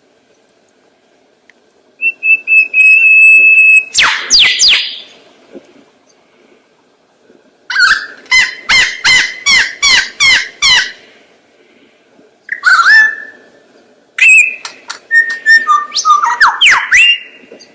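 A bird calling in loud separate phrases: a steady held whistle of about two seconds, a harsh sweeping call, a quick run of about ten repeated notes, then more whistles and sliding calls near the end.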